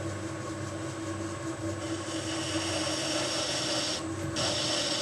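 Metal lathe running with a steady hum while a chamfer tool cuts a 45-degree chamfer on the turning workpiece: about two seconds in a hissing, scraping cutting sound starts, breaks off briefly near the end and starts again.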